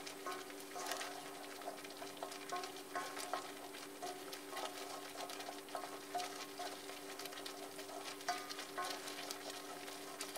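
Metal spatula stirring and scraping chili spice paste frying in a wok: a low sizzle with irregular short scrapes of the spatula against the pan, over a faint steady hum.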